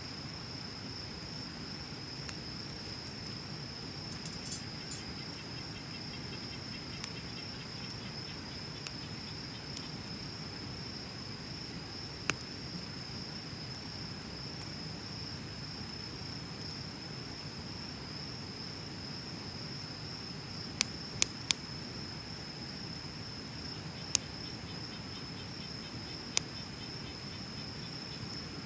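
Wood bonfire burning with a low, steady rumble and occasional sharp crackling pops: about six loud ones, three in quick succession about two-thirds of the way through. A steady high insect trill runs behind the fire throughout.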